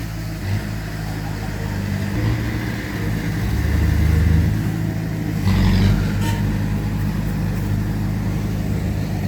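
Heavy diesel engine of earthmoving machinery running with a steady low drone. It swells louder around four seconds in and again briefly near six seconds.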